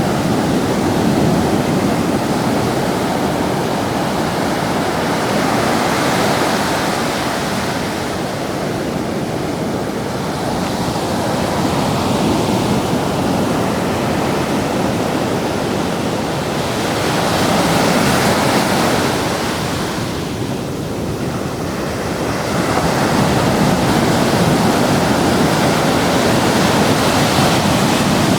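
Ocean surf breaking and washing up the shore: a continuous rush of water that swells and ebbs several times, loudest in the last few seconds.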